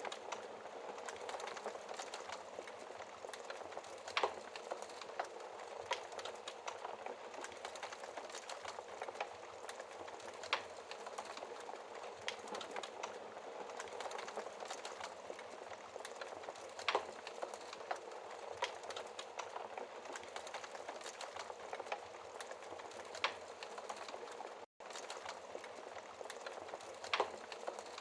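Wood fire crackling: a steady bed of small crackles with an occasional sharper pop every several seconds. The sound cuts out for an instant about three quarters of the way through.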